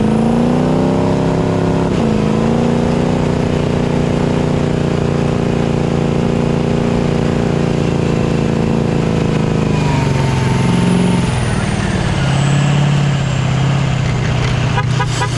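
A Ford 6.0 Powerstroke V8 turbo-diesel revs up hard under heavy load, its pitch climbing with a brief dip about two seconds in, then holding steady at high revs. About ten seconds in, the revs fall away and a falling turbo whistle can be heard as the engine comes back down.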